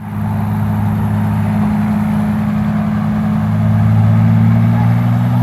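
Helicopter engine and rotor running at takeoff power, a steady low drone that grows a little louder about four seconds in and edges slightly higher in pitch near the end.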